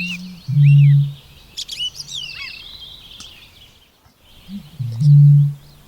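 Eurasian bittern booming twice: each time a short lead-in note, then a deep, steady, hollow boom lasting about half a second, one near the start and one near the end. Songbirds chirp and sing high above it throughout.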